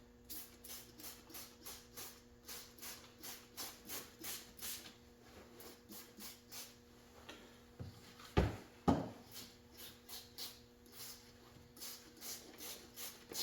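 Short, even scraping strokes, about three a second, from hand work on a dirtbike part, with two louder knocks about eight and a half seconds in, over a faint steady electrical hum.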